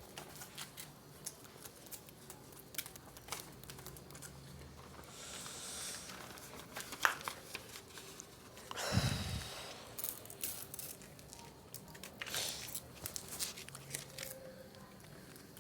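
Crinkling and tearing of paper being handled and glued, with many small scattered clicks and a brief rushing noise about nine seconds in.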